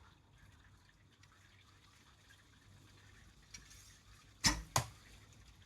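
Handling of a wooden flatbow and arrow: two sharp knocks about a third of a second apart, with a faint click a second before them, as an arrow knocks against the bow.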